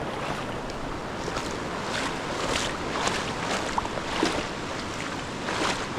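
Rushing water of small creek cascades, a steady noise, with a run of short splashy sounds about twice a second from about two seconds in.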